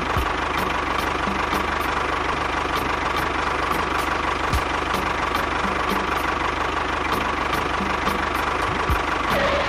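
A small engine running steadily at idle, with a faint regular ticking about three times a second.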